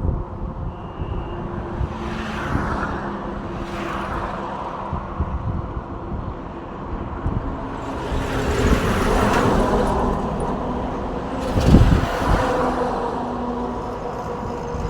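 Road traffic with engines running and vehicles passing. One vehicle swells up and fades a little past the middle, and a sharp low thump comes near the end.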